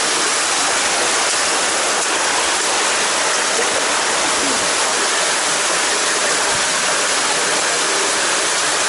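Loud, steady rush of water pouring and churning, like a waterfall or river current close by.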